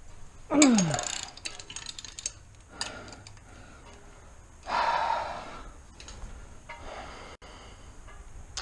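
A man groans with effort while heaving on a breaker bar, the groan falling in pitch about half a second in. Light metallic clicks of the tools follow, then a loud breath out about five seconds in.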